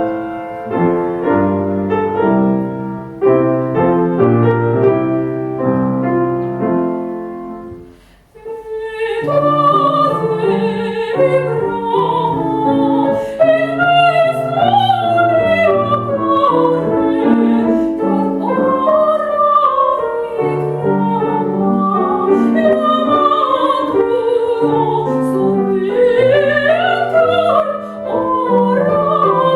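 A piano plays repeated chords alone and dies away about eight seconds in. Then a woman sings in a classical operatic style with vibrato, over piano accompaniment.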